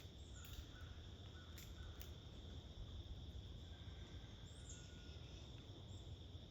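Quiet backyard ambience: a steady high insect drone with a few faint bird calls and light clicks.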